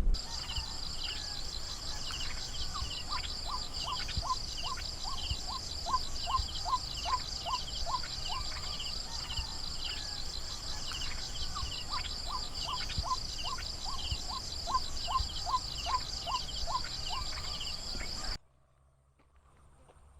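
A bird calling a long, quick series of short rising notes, in two runs, over a steady high trilling chorus of insects in a marsh. The sound cuts off abruptly near the end.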